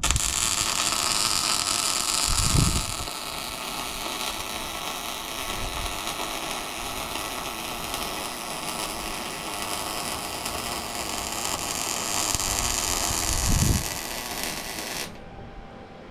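Plasma cutter running steadily, a long even hiss cutting steel plate, with a low thump about two and a half seconds in and another near the end before it cuts off suddenly.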